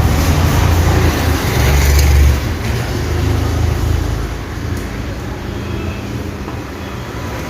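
Road traffic noise with a motor vehicle's engine rumbling close by, easing off a little after about two seconds.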